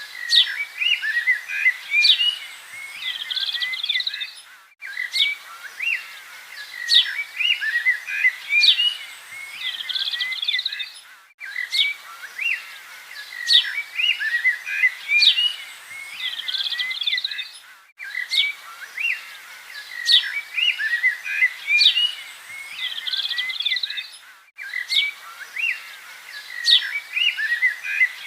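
Many small birds chirping and trilling together. The same few seconds of birdsong repeat about every six and a half seconds, with a short break at each restart: a looped recording.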